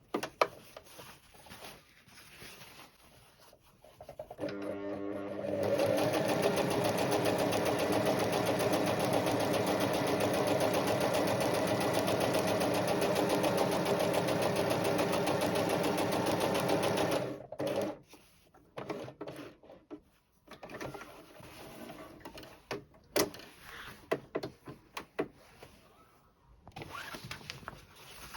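Electric sewing machine stitching a seam: it speeds up over about a second, runs at a steady speed for about eleven seconds, then stops. Scattered clicks and fabric handling before and after.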